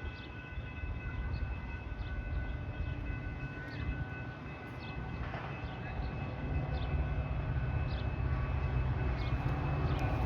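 Train rumbling on the tracks, growing louder in the second half, with a steady high whine of several tones over it.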